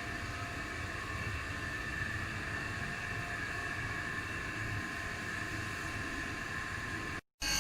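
A machine running steadily, giving a constant hiss with a high whine of several tones over a low rumble, which cuts off abruptly near the end.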